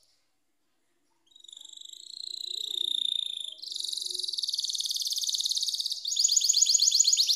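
Domestic canary singing. High whistled phrases begin about a second in, turn into a buzzy trill, and near the end break into a louder, very fast rolling trill of rapidly repeated notes.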